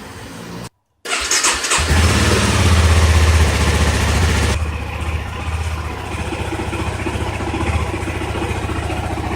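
Honda CBR motorcycle on its stock exhaust being started: the engine catches about a second and a half in and runs loud and high for a few seconds, then settles to a steady idle.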